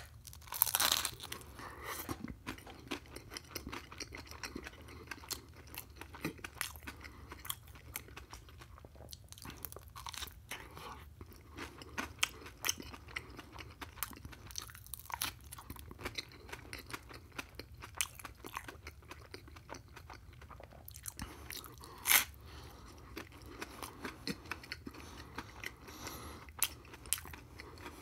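Close-miked mouth sounds of a person biting into and chewing crunchy food, a toasted slice topped with crushed potato chips. There are two loud crunching bites, one about a second in and another near the end, and steady chewing crackles between them.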